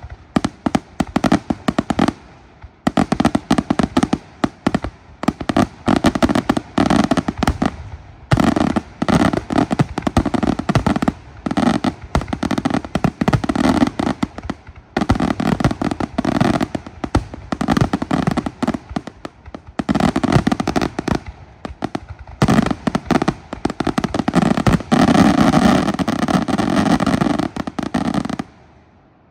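Fireworks display: a dense, rapid barrage of bangs and crackling reports going off almost without pause. It grows thickest near the end, then stops abruptly.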